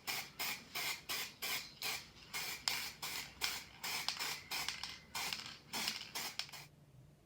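Quick back-and-forth rasping strokes, about three a second, as of hand sanding or scrubbing a small part; they stop near the end.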